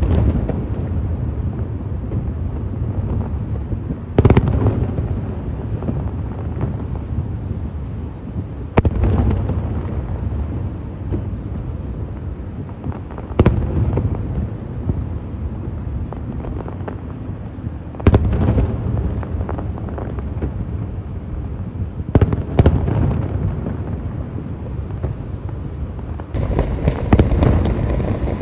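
Aerial fireworks shells bursting: sharp booms every four or five seconds with a low rumbling echo between them, then a quick run of bursts with crackle near the end.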